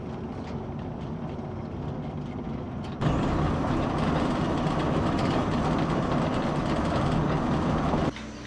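Steady mechanical running noise with a low hum, like a motor or vehicle, stepping up abruptly to a louder level about three seconds in and cutting down again near the end.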